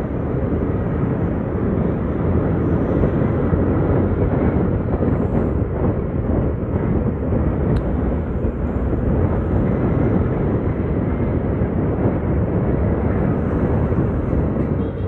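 Steady wind rush and road noise from a motorcycle under way, loud and unbroken.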